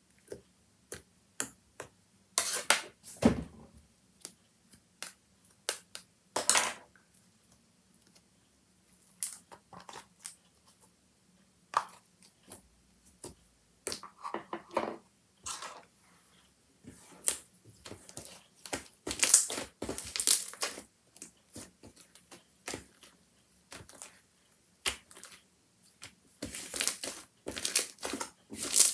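Handmade slime being squeezed and worked by hand, giving irregular crackling clicks and pops, some singly and some in quick clusters.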